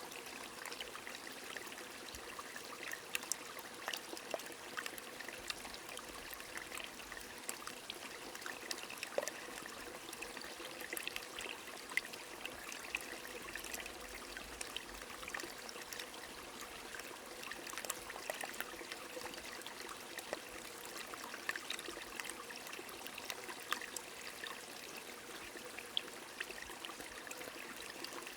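Steady rain falling with many small scattered drop ticks, over a continuously running stream.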